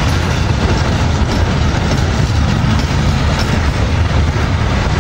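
A train of vintage passenger carriages rolling past alongside the platform: a steady, heavy low rumble of wheels on the rails.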